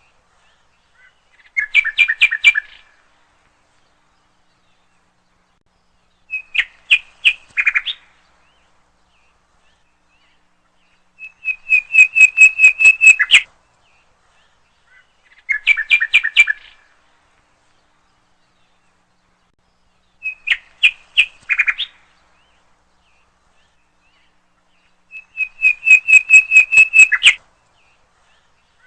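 A bird calling in short bouts of rapid, repeated chirping notes, six bouts about every four to five seconds with silence between.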